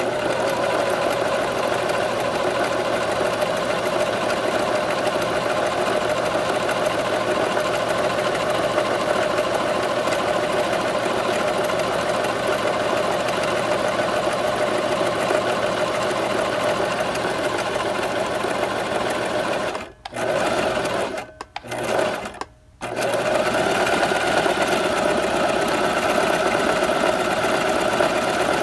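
Sewing machine running at a steady speed. About two-thirds of the way through it stops briefly three times in quick succession, then runs on steadily.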